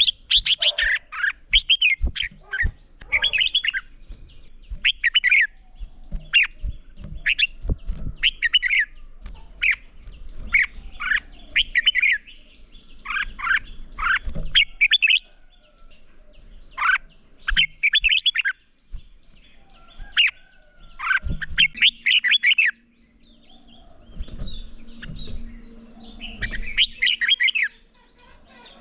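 Red-whiskered bulbul singing: a run of quick, bright warbled phrases, each about a second long, with short pauses between them.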